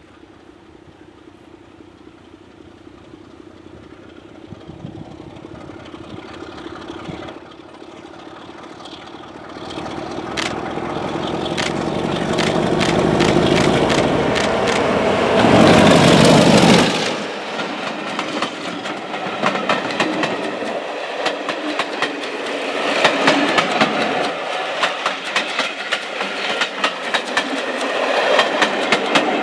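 A British Rail Class 33 diesel locomotive approaching and passing close by, its engine growing louder to a peak about halfway through and then dropping away sharply, followed by the coaches' wheels clattering over the rail joints.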